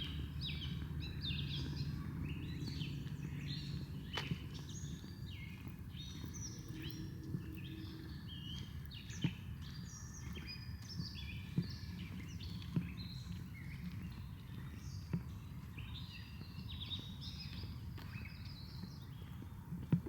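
Birds chirping and singing in a busy, continuous chorus of short calls, over a low outdoor rumble, with a few brief knocks scattered through.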